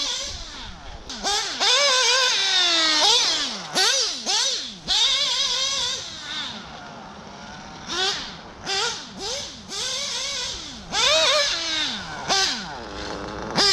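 Nitro RC car engine revving hard in about ten quick bursts, its high-pitched whine climbing and then falling away each time.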